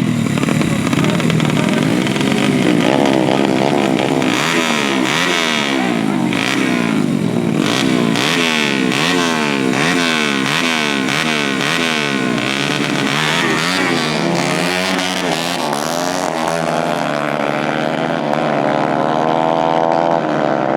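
Dirt-bike engines revving hard, several overlapping, their pitch climbing and dropping over and over in quick succession. Near the end one engine climbs steadily in pitch as it accelerates.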